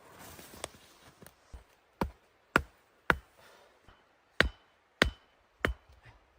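Six sharp knocks or chops in two groups of three, about half a second apart, the later ones followed by a brief metallic ring.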